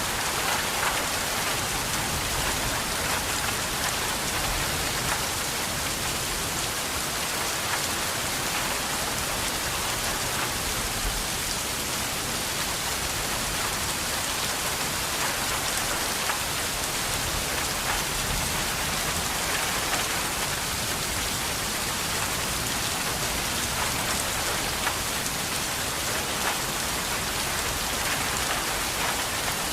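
Steady rain falling, an even hiss with fine patter of drops, unchanging throughout.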